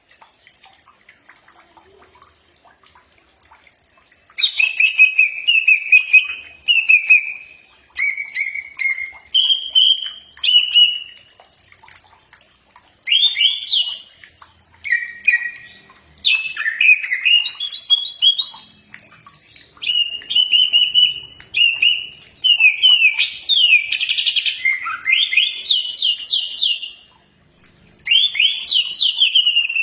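Cucak ijo (green leafbird) singing: bursts of varied, clear whistled notes and quick sweeping chirps, separated by short pauses, starting about four seconds in after a quiet opening.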